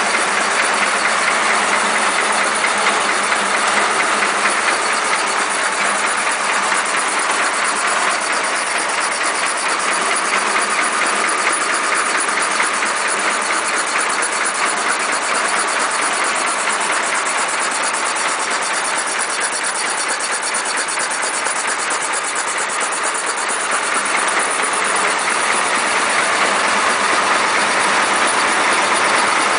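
Rover 2.25 diesel-based air compressor ticking over at a few hundred rpm, with a steady, even, rhythmic clatter. It is running unloaded with its outlet pipe off, so air just moves in and out of the cylinders to cool it down after hours of work.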